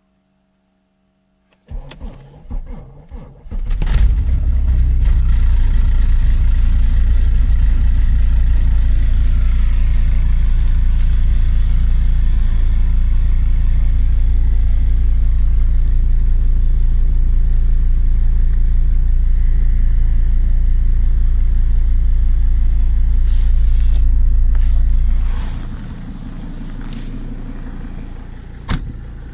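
Mercedes W210 E 290 turbodiesel's five-cylinder engine cold-starting at −17 °C after two weeks standing. The starter cranks for about two seconds, the engine catches and runs loud and steady, then goes quieter a few seconds before the end. A single knock is heard near the end.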